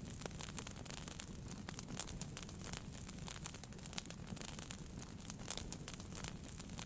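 Wood fire burning in a fireplace, crackling with many small, quick pops over a steady low rumble of the flames.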